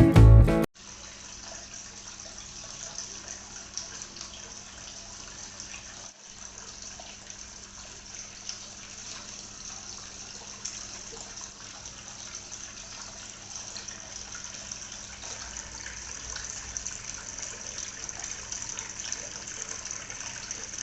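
Homemade waterfall fountain running, its water falling and splashing steadily, with a faint steady hum from its pump.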